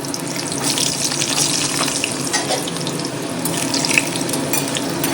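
Tap water running steadily into a bowl as parboiled rice and red lentils (masoor dal) are rinsed.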